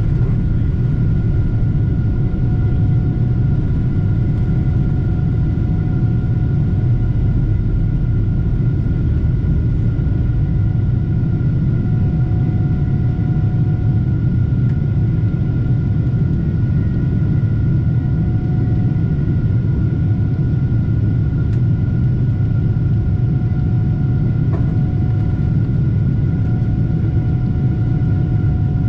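Boeing 747-8 with its GEnx-2B jet engines running: a steady, loud low rumble with a few constant high whine tones over it.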